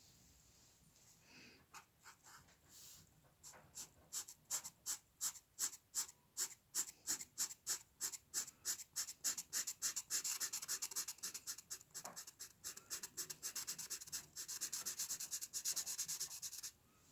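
Drawing tool scratching on paper in back-and-forth strokes, about three a second. About ten seconds in they turn into faster, denser scribbling, as when shading or filling in, and they stop abruptly near the end.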